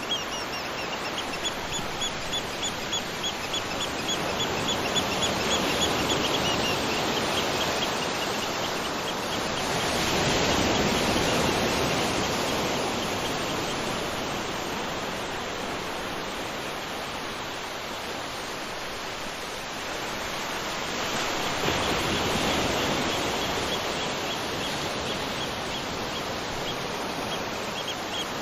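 Waterfall: the steady rush of falling water, swelling and easing twice. A rapid series of high chirps, about four a second, runs through the first few seconds and comes back near the end, a bird calling over the water.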